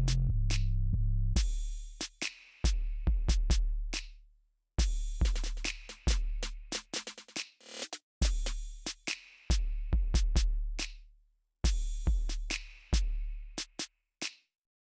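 Electronic music with a drum-machine beat: a held bass line stops about a second and a half in, leaving sparse deep, decaying bass kicks and sharp snare and hi-hat hits, with short silent gaps between phrases.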